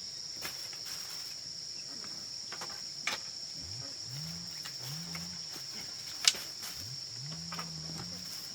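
Steady high-pitched insect chorus, like crickets, with a few sharp clicks or knocks, the loudest about six seconds in, and a run of low rising sounds in the second half.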